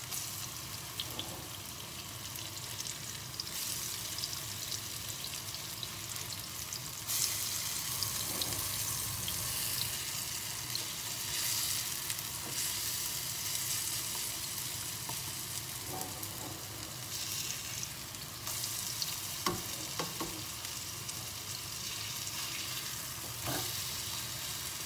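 Zucchini and gram-flour fritters sizzling as they shallow-fry in olive oil in a pan, the sizzle growing louder a few times, with a few light clicks of the spatula against the pan in the second half.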